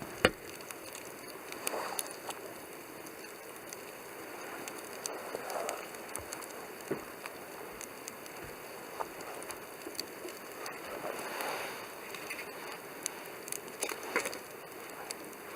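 Wood fire burning in a Coleman Fire Disk fire pit: irregular crackles and sharp pops, with soft whooshing swells of flame every few seconds. The loudest pop comes right at the start.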